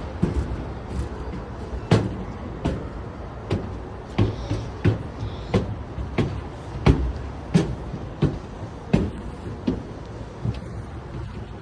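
Footsteps at a steady walking pace, about one and a half a second, over a low steady rumble of background noise.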